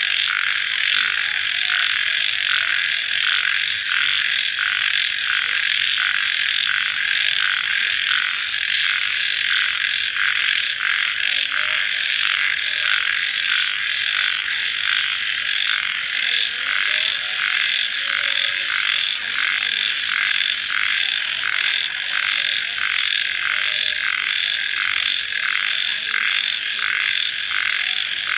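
Dense night chorus of calling animals: a steady, shrill massed trill that pulses about twice a second, with no pauses.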